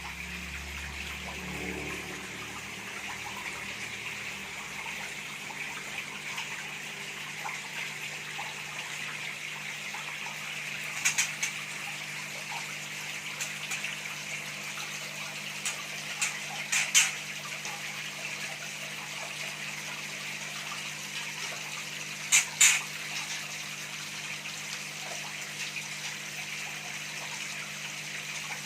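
Steady running, trickling water, with a low steady hum underneath. A few short sharp high sounds come in pairs about 11, 17 and 22 seconds in.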